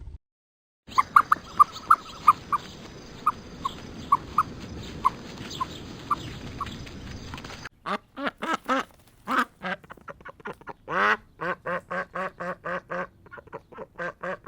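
Animal calls: after a brief gap, short high chirps come about twice a second for several seconds. Then, from about halfway through, a fast, even run of short nasal quack-like calls follows, about three to four a second.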